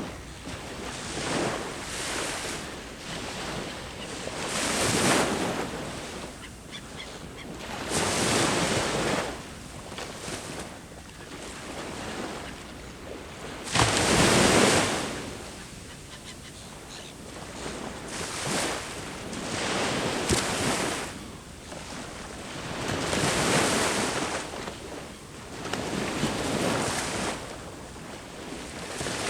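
Sea waves breaking on the shore, surging and washing back in uneven swells every few seconds; the loudest wave breaks suddenly about halfway through.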